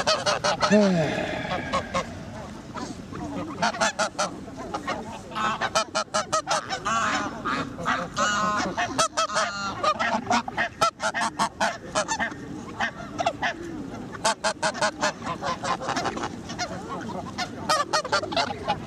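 A flock of geese honking, many short calls in rapid, overlapping runs.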